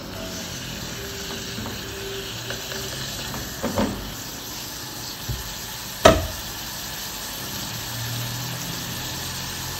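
Minced beef and onions frying in fat in a stainless steel pot, sizzling steadily while a spatula stirs and scrapes through it. A couple of sharp knocks on the pot, the loudest about six seconds in.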